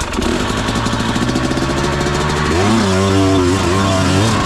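Enduro dirt bike engine running hard, its revs stepping up and wavering up and down about two-thirds of the way through.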